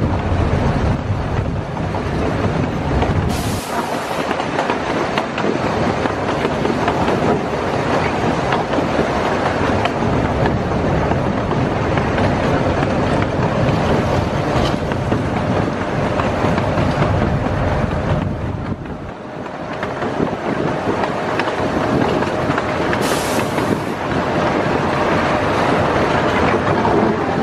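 Miniature park train rolling along its track, heard from on board: a steady rumble with the clickety-clack of the wheels over the rail joints. Two brief hisses break in, one a few seconds in and one past the middle, and a faint steady squeal joins for the second half.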